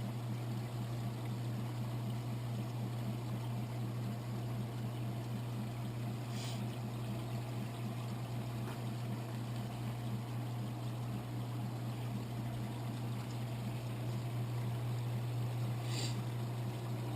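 Aquarium pump and filter running with a steady low hum over trickling water, with two brief splashy hisses about six and sixteen seconds in.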